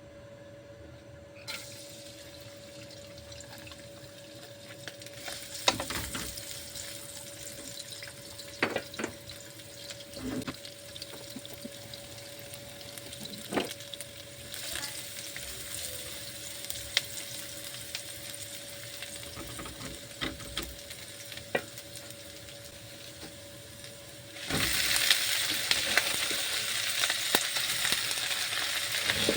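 Food frying in a hot pan: a steady sizzle with scattered clicks and knocks of a utensil against the pan, over a faint steady hum. Near the end the sizzling suddenly grows much louder.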